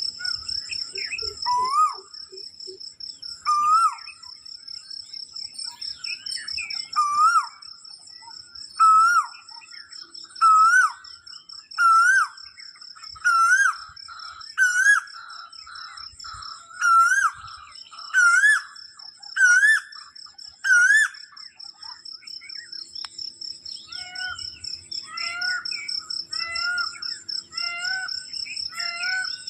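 A bird repeating a loud whistled, upslurred note about every second and a half, the series climbing steadily in pitch before it stops; other shorter bird calls follow near the end. A steady high insect trill runs underneath.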